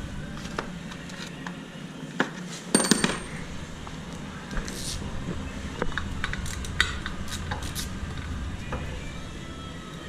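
Metal tools and parts clinking and clattering in irregular knocks, with a cluster of sharp clinks about three seconds in, one ringing briefly.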